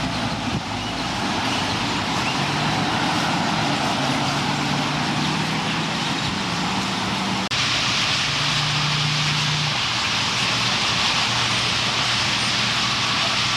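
Dense, steady chatter of a massed purple martin roosting flock, mixed with the low hum of traffic and engines. The sound breaks off for an instant about halfway through.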